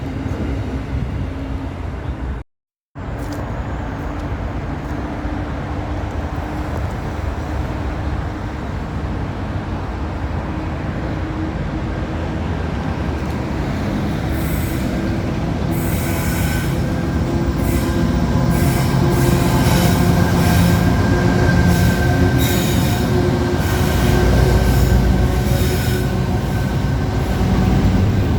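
A train running past on the rails, a continuous rumble that grows louder through the second half, with clicks of the wheels and faint squealing tones. The sound cuts out for half a second near the start.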